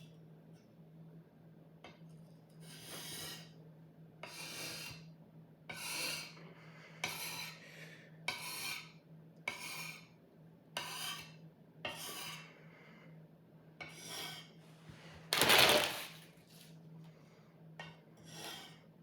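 Sword blade being sharpened with repeated rasping strokes, about one a second, one stroke much louder about three-quarters of the way through.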